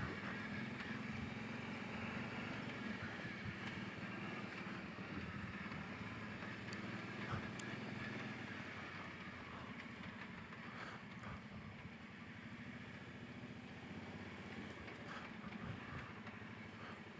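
Faint ATV engine running steadily at low revs, a low even hum that eases off slightly toward the end.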